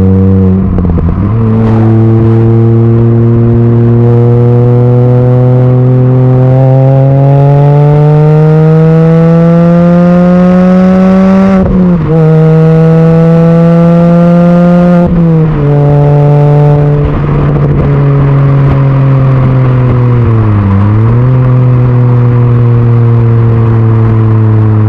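Mini Cooper S R53's supercharged 1.6-litre four-cylinder running through a stainless steel catback exhaust, loud and accelerating. The engine note climbs steadily for about ten seconds, drops sharply with a gear change, climbs again briefly and drops with a second change. It then holds steady, with a short dip and recovery in pitch later on.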